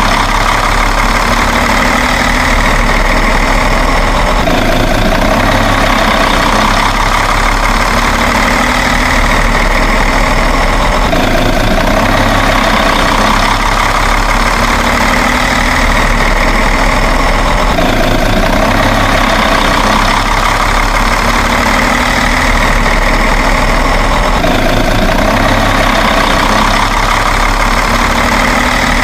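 Engine idling sound, steady and loud, with a pattern that repeats in a loop about every six and a half seconds.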